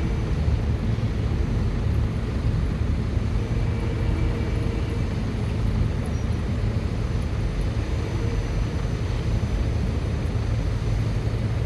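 SEPTA Silverliner IV electric multiple-unit train running, a steady low rumble with faint steady hums.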